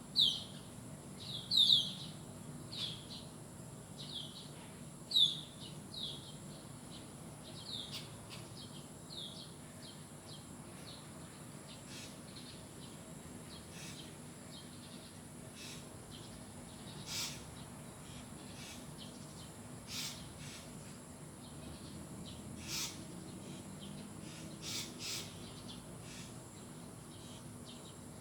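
Bird calling with short, quick downward-sliding chirps, repeated roughly once a second for the first ten seconds, then a few single sharp calls spaced several seconds apart.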